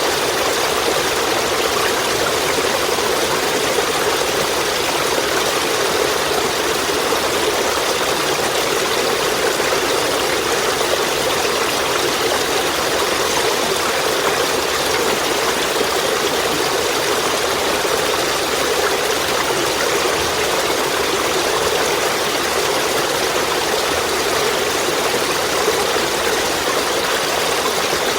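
A stream of running water flowing steadily, a continuous even rush and burble with no breaks or sudden sounds.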